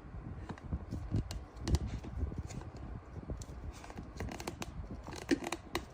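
Objects being handled at close range: scattered sharp clicks and taps over low rustling, with a quick cluster of clicks near the end.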